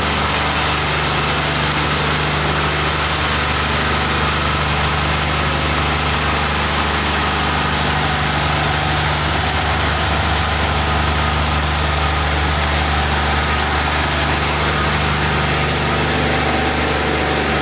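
Train running steadily through a train washing machine: a constant low hum with an even rushing noise over it, unchanging throughout.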